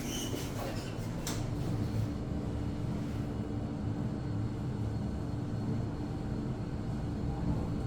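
ThyssenKrupp TK-50L elevator car travelling at speed: a steady low rumble with a faint steady hum. A few short clicks come in the first second or so.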